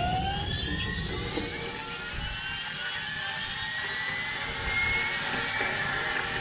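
Helicopter turbine engine spooling up: a whine that rises in pitch and levels off about halfway through, over a low rumble.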